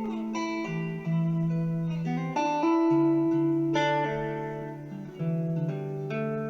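Guitar music: plucked notes and chords that ring and fade, a new one struck about every second.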